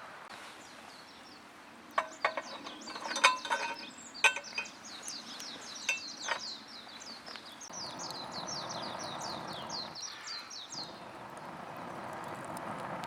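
A small bird singing a fast run of short, high, falling chirps, over sharp clicks and knocks in the first half and a rushing noise that swells twice.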